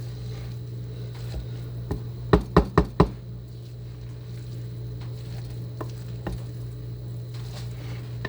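Four quick, sharp knocks in a row, about four a second, a few seconds in, with a few fainter knocks around them, over a steady low hum.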